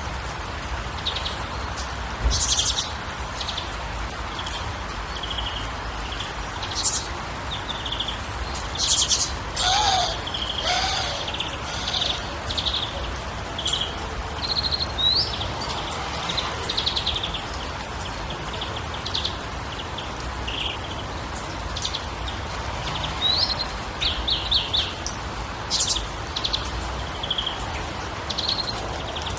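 Several small birds chirping and trilling in short, high calls throughout, over a steady rushing background noise.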